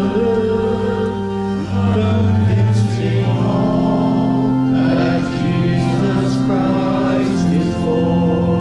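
Congregation singing a hymn together with organ accompaniment, in sustained chords that change every second or two.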